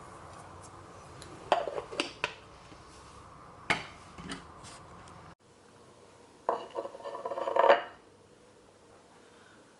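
Dishes and cutlery clinking and knocking in a kitchen: a few sharp knocks in the first half, then a quick run of ringing metal-on-crockery clinks in the second half. The background hum drops away abruptly midway.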